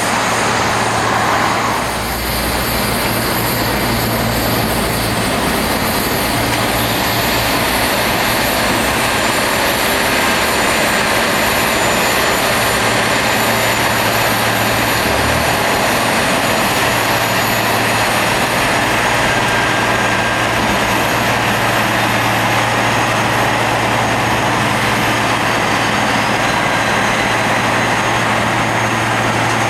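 Rail grinder at work: grinding wheels on the railhead make a loud, steady rushing hiss, over the low, even drone of the machine's engines.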